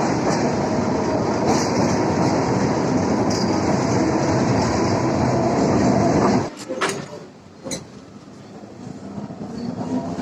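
Suburban electric local train running, a steady loud rumble of wheels and carriage on the track heard from on board. About six and a half seconds in the noise drops away suddenly, leaving a quieter background with a couple of sharp clicks, before building up again near the end.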